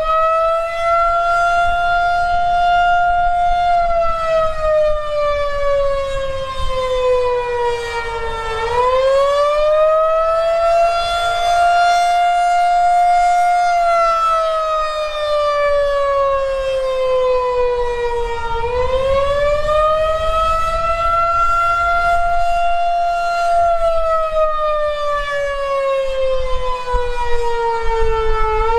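Federal Signal 2001-130 outdoor warning siren sounding its attack signal: a loud wail that rises quickly, holds, then slides slowly down, repeating about every ten seconds. Its pitch fluctuates unevenly, a fault the recorder noticed throughout the test.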